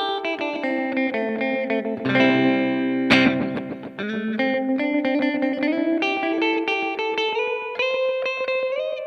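Electric guitar played through an Old Blood Noise Endeavors Black Fountain V3 oil-can style delay pedal, each note trailed by quickly repeating echoes. There is a sharp, loud picked note about three seconds in, and the notes then climb in small steps.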